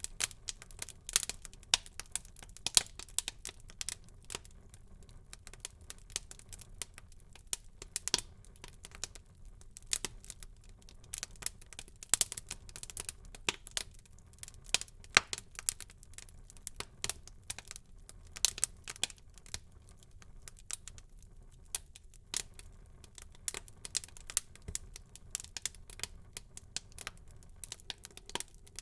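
Wood fire crackling in a fireplace: irregular sharp pops and snaps over a soft low hiss of burning.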